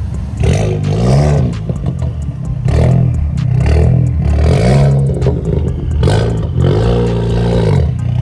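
A car engine being revved about five times in quick succession, each rev rising and falling in pitch, over a steady low hum.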